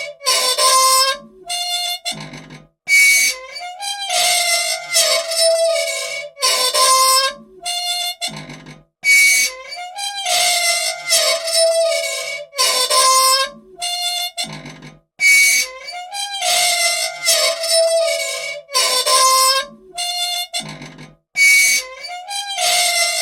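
A squeaky old machine's dry parts squealing and creaking in long, pitched, wavering squeaks, a sequence that repeats about every six seconds; by the uploader's account it wants oil.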